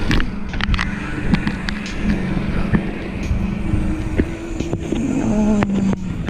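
Mountain bike ridden along a dirt trail: steady wind rumble on the mic, tyre noise and rattling clicks from the bike. A short pitched whine comes in near the end.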